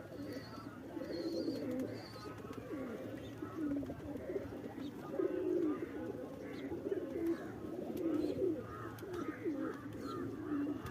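Several domestic Shirazi pigeons cooing continuously, their low warbling coos overlapping. A few short high chirps come in the first two seconds.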